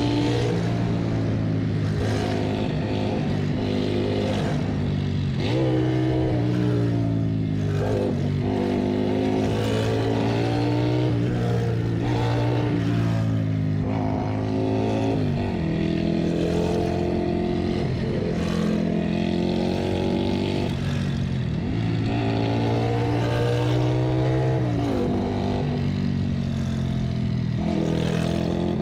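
Motorcycle engine running under way, its pitch climbing and then dropping again and again as the throttle is opened and closed, with steady wind and road noise.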